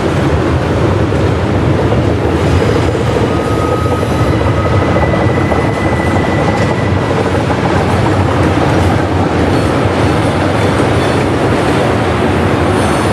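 Freight train rolling past, a steady loud rumble of wheels on rail, with a faint high squeal of wheels briefly in the first half.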